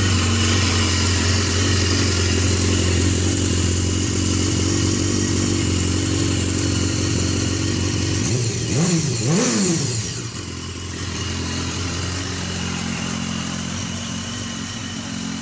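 BMW S1000RR inline-four motorcycle engine with a Two Brothers aftermarket exhaust, idling just after start-up. It is revved twice in quick succession about eight to nine seconds in, then settles back to a steady, slightly quieter idle.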